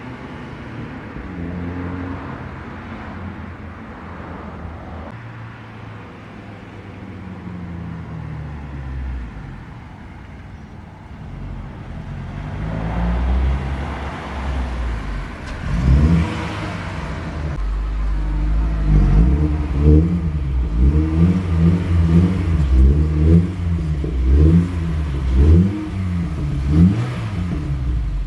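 Honda Fit GE8's 1.5-litre four-cylinder engine heard through its aftermarket Greddy muffler. The engine runs low at first, then builds up with a rev about halfway through. After that it is revved in a string of quick throttle blips, roughly one a second.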